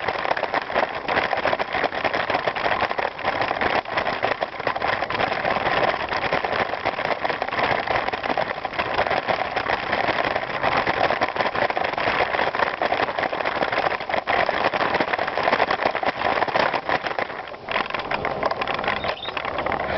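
Bicycle tyres rolling over a gravel trail: a steady, dense crunching noise that dips briefly near the end.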